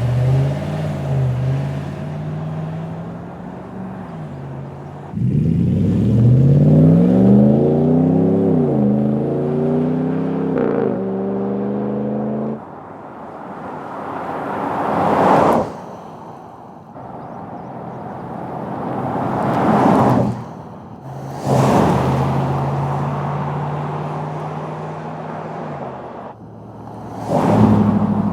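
RAM pickup's V8 exhaust through a Flowmaster Signature Series 304 stainless cat-back with a straight-through muffler: idling steadily, then several free revs rising and falling. In the second half, the truck drives past a few times, each pass swelling up and dropping away.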